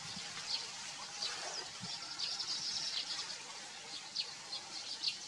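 Birds chirping: many short, high, downward-sliding chirps at an uneven pace, over a steady high hiss.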